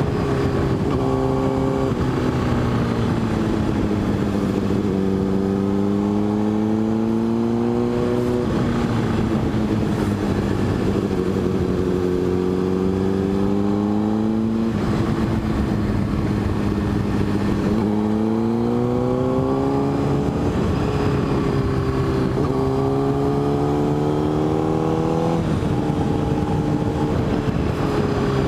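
Motorcycle engine running under way, its pitch rising and falling with the throttle and jumping at several gear changes.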